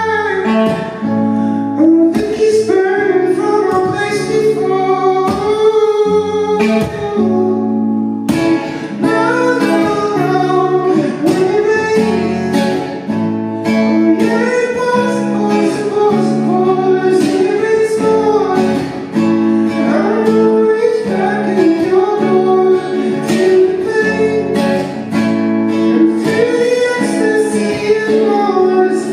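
Live song performance: acoustic guitar strumming with a singing voice carrying the melody.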